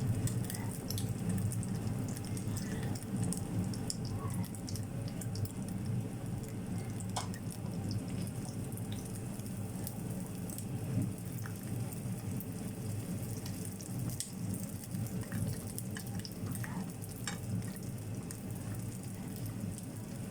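Spring rolls frying in hot oil: steady sizzling with scattered crackles and pops.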